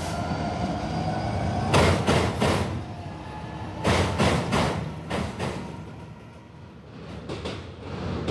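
A train led by a Class 66 diesel locomotive crossing a steel girder railway bridge: wheels clatter over rail joints in several groups of rapid knocks. Before the first clatter, a steady engine note rises slowly in pitch.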